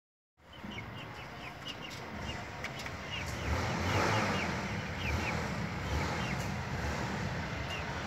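Small birds chirping: a run of short, high chirps, about two or three a second, over a steady low rumble.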